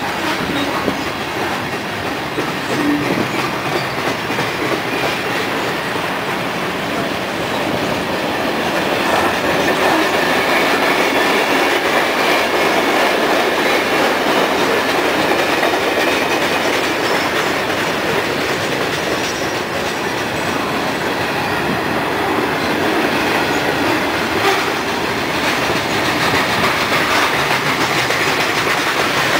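CSX freight train's cars rolling steadily past, steel wheels running on the rails. The sound grows louder about eight seconds in.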